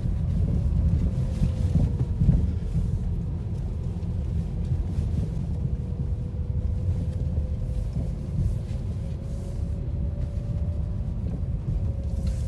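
Steady low rumble of road and tyre noise inside the cabin of a moving Lada Vesta Cross, with a faint steady tone running underneath.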